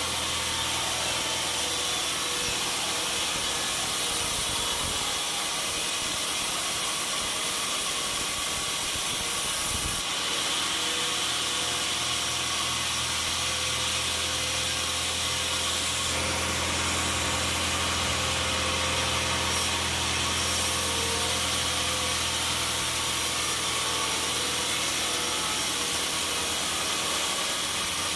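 Sawmill machinery running steadily with the noise of a saw cutting through wood over a low engine hum. The sound changes abruptly about ten seconds in and again around sixteen seconds.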